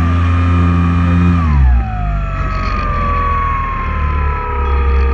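Motors and propellers of a multirotor drone whining in several steady pitches. About a second and a half in they drop together in pitch as the motors slow, then hold steady at the lower speed.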